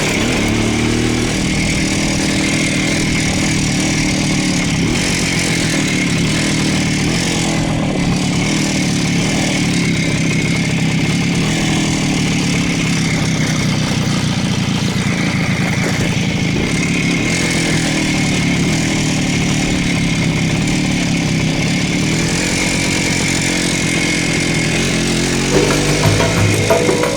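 Voskhod motorcycle's single-cylinder two-stroke engine running on the move, its pitch rising and falling gently with the throttle. Music comes in near the end.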